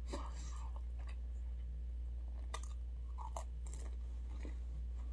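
Close-up chewing of pizza crust with the mouth closed: soft, faint mouth clicks now and then, over a steady low hum.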